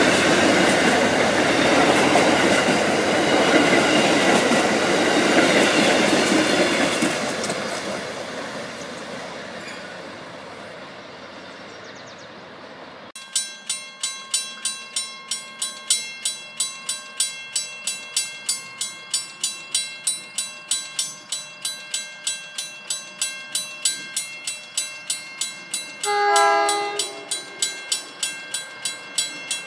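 An Amtrak passenger train runs past and its rumble fades away over the first dozen seconds. Then a grade-crossing bell dings steadily, about twice a second, and an approaching train gives a short horn blast near the end.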